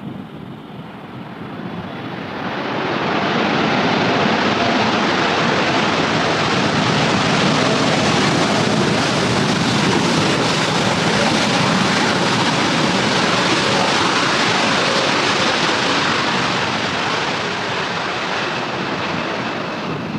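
Jet airliner passing low on its landing approach, its engine noise swelling about two seconds in, staying loud, then fading near the end.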